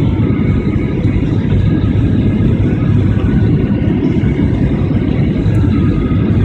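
An airliner landing, with a loud, steady low rumble of tyres and engines and no distinct bumps or changes.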